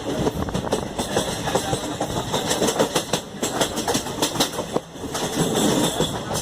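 Passenger train running along the track, a steady rumble full of irregular clicks and knocks from the wheels and coaches.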